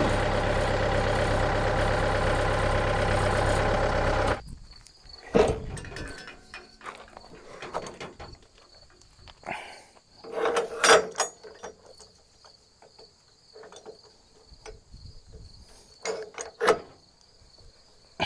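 An engine running steadily cuts off abruptly about four seconds in. Scattered clunks and knocks of equipment being handled follow, over crickets chirping.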